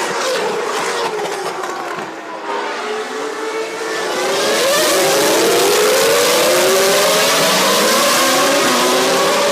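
Formula One cars' 3-litre V10 engines at racing revs, several at once, their pitches rising as they accelerate. About four seconds in, more cars join and the sound grows louder and fuller with many overlapping climbing notes.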